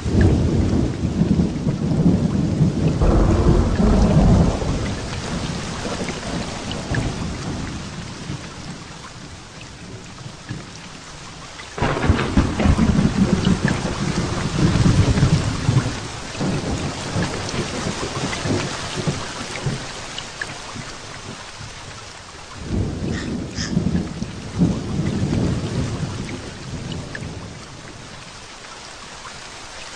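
Heavy rain falling steadily, with three claps of thunder. Each begins suddenly, one at the start, one about twelve seconds in and one a little past twenty, then rumbles for several seconds and fades.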